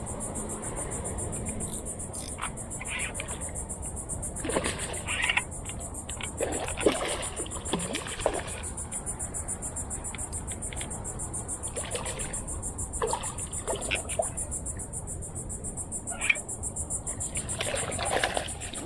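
Intermittent water splashes from a hooked redfish being fought at the side of a canoe, over a steady low rush of wind and a continuous high buzz.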